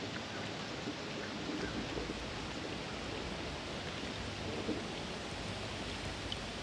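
Steady rushing of river water running over a shallow riffle, with a few faint ticks.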